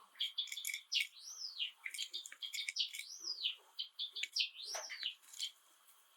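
Java sparrow singing: a quick run of clicks and chips broken by clear whistled notes that rise and fall, about one a second, before the song breaks off near the end.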